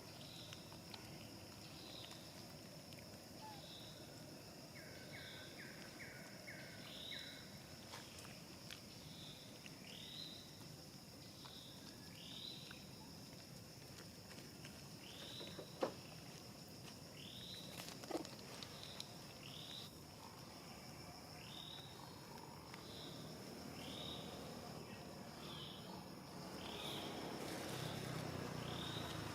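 Faint outdoor ambience: a steady high insect drone with a short chirping call repeated about once a second, and a quick run of notes a few seconds in.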